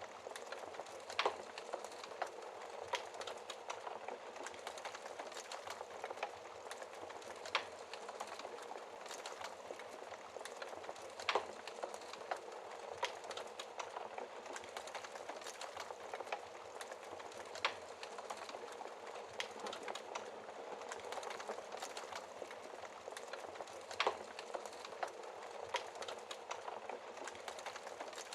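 Wood fire burning in a fireplace, crackling steadily with a dense hiss of small snaps and sharper pops every few seconds.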